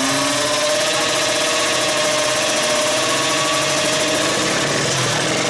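Two-stroke drag-racing motorcycle engine running at steady high revs, its pitch held nearly constant.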